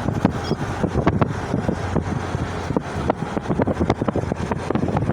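Wind buffeting the microphone: a steady low rumble broken by irregular crackles and taps.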